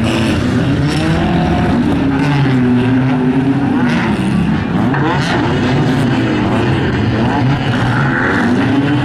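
Banger racing cars' engines revving up and down, more than one at a time.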